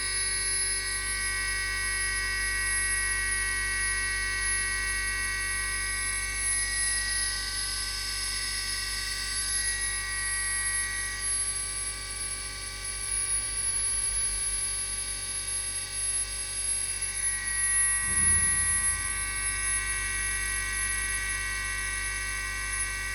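36 V brushless DC lawn mower motor running steadily: a constant whine of several fixed high tones over a low hum. A brief low thump about 18 seconds in.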